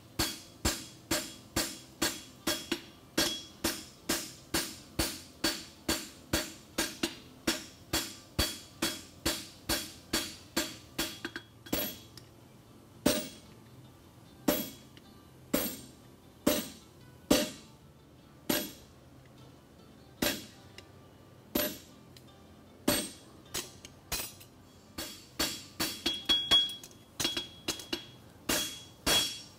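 Hammer blows on hot horseshoe steel over an anvil, each with a metallic ring: a steady run of about two to three strikes a second, then slower, spaced-out blows, then a quicker flurry near the end.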